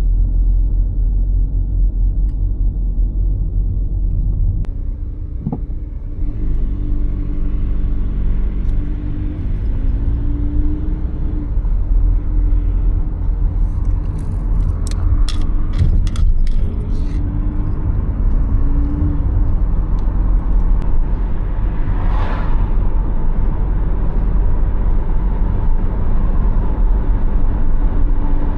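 A car driving, heard from inside: a steady low road rumble with the engine note rising and falling as it speeds up and slows. A quick run of clicks comes about halfway through.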